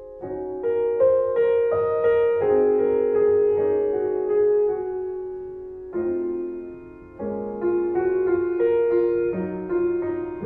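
Slow, gentle piano music: single notes and chords struck one after another, each ringing on and fading, with a new phrase starting about six seconds in and another a second later.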